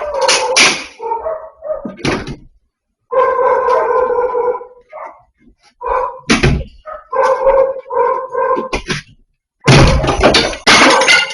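A dog barking in repeated short calls, with one longer held call about three seconds in and a quick run of barks near the end.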